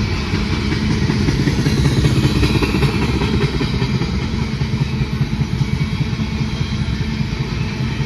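BNSF freight train running past with a steady, loud rumble.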